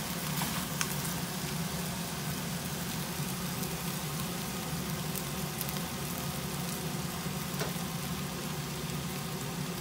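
Stir-fry of long beans, mushrooms and rice noodles sizzling steadily in a frying pan, over a low steady hum. A couple of light clicks come in the first second and one more near the end, typical of a wooden spatula against the pan.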